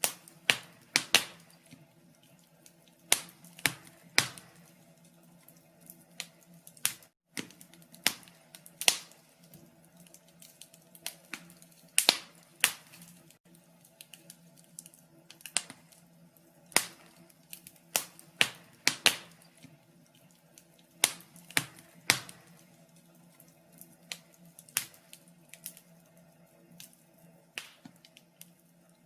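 Wood fire crackling in a fireplace: irregular sharp pops and snaps, one or two a second and uneven in strength, over a faint steady low hum.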